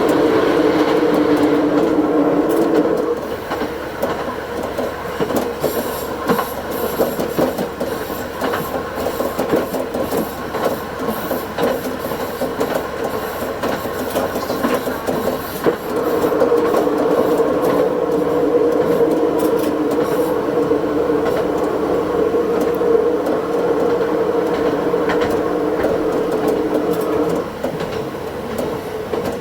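Diesel railcar running along the line, heard from the front cab and sped up to double speed, with wheels clicking over the rail joints. The engine drone is strong for the first few seconds, eases off while the railcar coasts, then comes back strongly for about ten seconds in the second half before easing again near the end.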